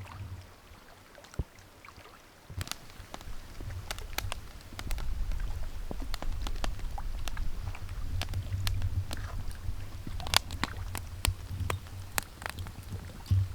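Outdoor wind rumbling on the microphone, stronger after the first couple of seconds, with irregular sharp ticks and taps scattered through it.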